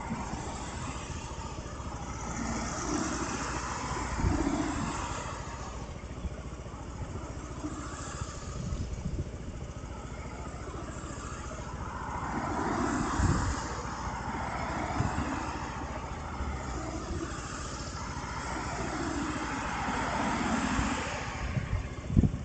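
Road traffic noise, with vehicles swelling up and fading away several times and a few short low thumps in between.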